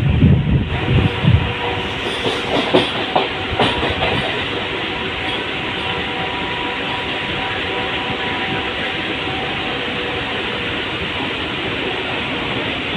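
Mumbai local electric train running. Wind buffets the microphone for about the first second, and a few wheel clacks over rail joints come in the first four seconds. After that the moving train makes a steady, even roar.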